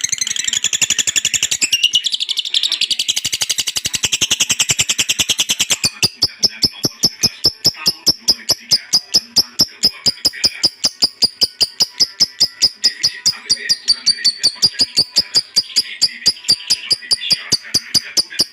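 Lovebird ngekek: a long, rapid chattering trill, high-pitched, dense at first and settling about six seconds in into an even run of quick pulses, several a second, that carries on without a break.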